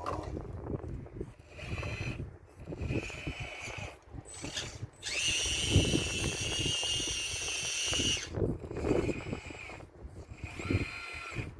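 RC model excavator's hydraulic pump whining in short bursts, then steadily for about three seconds in the middle as the machine works, over irregular knocks and scraping of stones from the wall.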